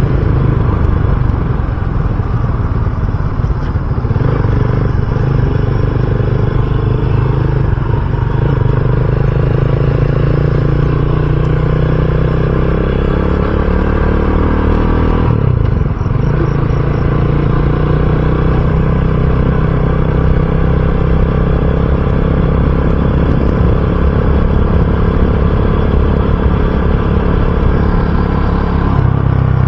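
RUSI Classic 250 motorcycle engine running steadily under way. Its note dips briefly about halfway through, then settles back to a steady run.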